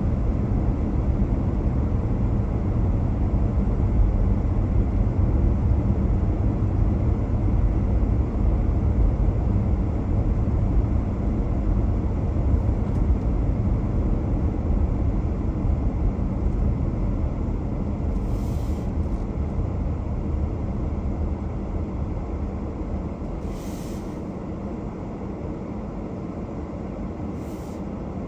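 Steady road and running noise of a car driving, strongest in the low end, growing quieter over the last several seconds. A few brief high-pitched hisses come in the second half.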